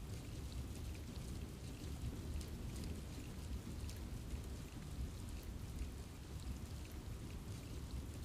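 Steady rain falling in a forest, with many separate drops pattering on leaves over a low, even rumble.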